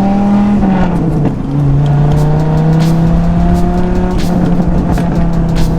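Dodge Viper's 8.3-litre V10 running through a custom muffler-delete exhaust that uses the crossover pipes. The engine note dips about a second in, then climbs slowly and steadily as the car pulls.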